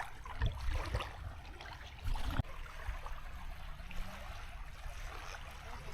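Small waves washing on a sandy beach, with one louder wash about two seconds in.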